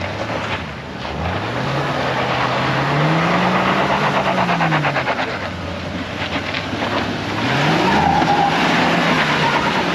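Off-road truck engine revving hard under load, its pitch climbing to a peak about four seconds in and falling back, then rising again near the end.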